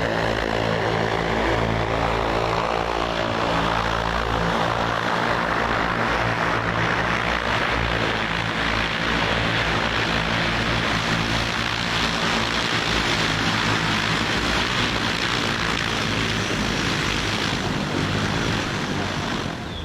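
Xpeng X2 flying car's electric multirotor propellers running: a loud, steady whir with several tones at first, turning into a dense rushing noise after about six seconds.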